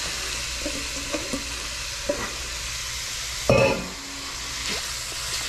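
Diced peppers and onions sizzling in a hot pan as flaked smoked herring is tipped in and stirred with a wooden spoon. About three and a half seconds in, a loud metal knock rings briefly.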